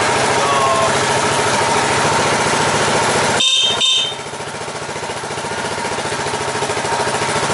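Suzuki Savage 650's single-cylinder engine running at idle with a steady beat. About three and a half seconds in come two brief high-pitched tones; after them the engine sound is a little quieter and slowly builds back up.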